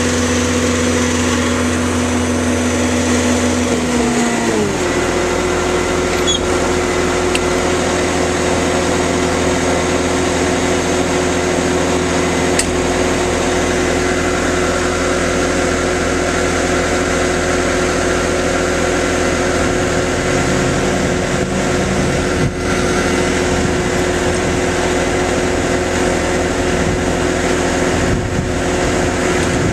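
Bobcat T750 tracked skid steer's diesel engine running, throttled down about four seconds in and then running steadily at lower revs.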